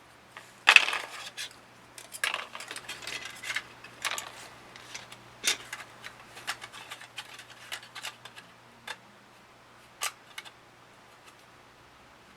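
Hard plastic model-kit parts clicking and clattering as they are handled, with the loudest clatter just under a second in, a busy run of clicks around two to four seconds, and single sharper clicks after that. A faint steady hum sits underneath.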